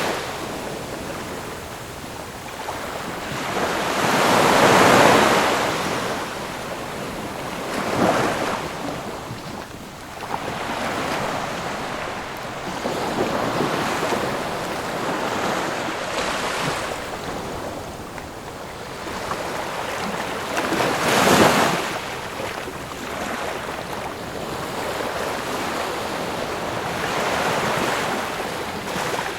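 Ocean waves breaking on a shore, each wave a surge of rushing surf that swells and fades over a few seconds. The biggest breakers come about five seconds in and about two-thirds of the way through.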